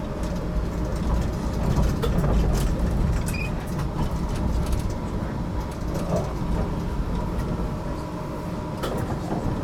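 HTM GTL8 articulated tram running between stops, heard from inside the car: a steady low rumble with a faint constant hum and a few sharp clicks.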